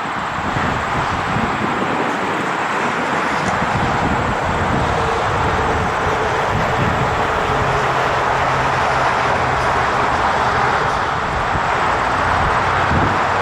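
Jet airliner engines running at high power, a steady rushing noise with a low hum that comes in partway through, as from an aircraft on its takeoff roll.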